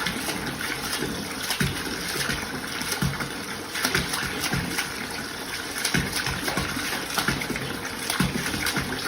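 Steady rush of running water, with irregular low knocks through it.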